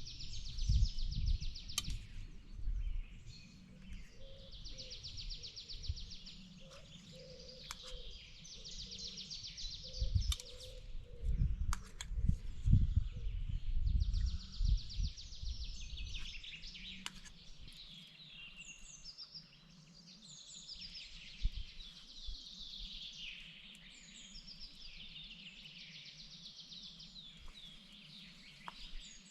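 Songbirds singing, with rapid trills repeated every few seconds and other chirps between them. A low rumble comes and goes through the first half and fades out about halfway through.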